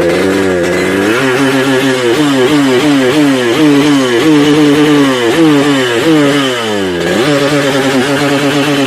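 Yamaha RX-King's 135 cc two-stroke single-cylinder engine being revved in quick throttle blips, about two a second. Each blip jumps sharply up in pitch and falls back, with one deeper drop near the end.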